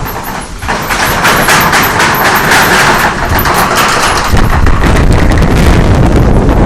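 Strong gusty wind blowing hard over the microphone, with rapid crackling buffets; a deep rumbling of wind on the mic sets in about four seconds in.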